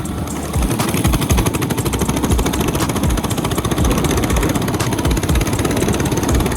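Mini bike's Predator 212 single-cylinder engine running steadily under throttle while riding.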